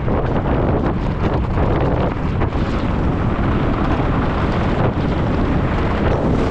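Wind buffeting the microphone as a loud, steady rushing roar, from riding a mountain bike downhill at high speed.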